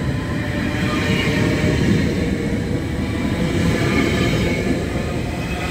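Bombardier BiLevel commuter coaches of a departing ACE train rolling past close by: a steady, loud rumble of wheels on rail, with faint high whining tones above it.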